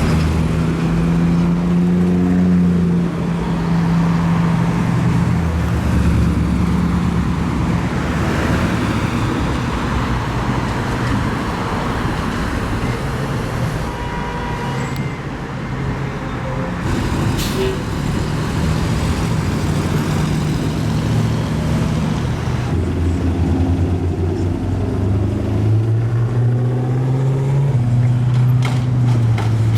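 Car engines and exhausts idling and running at low speed in slow traffic, their low drone shifting in pitch as cars move and pass.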